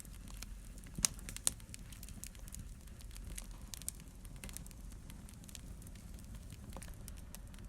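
Wood fire burning in a fireplace, crackling with scattered sharp pops over a low steady rumble of the flames; the loudest pops come about a second and a half in.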